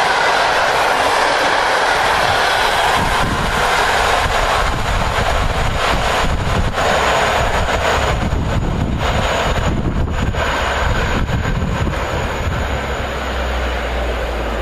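Train led by an EP09 electric locomotive running past on the line, the wagon noise gradually fading. Wind buffets the microphone, growing near the end.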